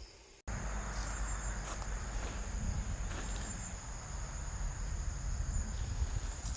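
Crickets trilling in a steady high-pitched drone, starting suddenly about half a second in, over a low rumble with a few faint clicks.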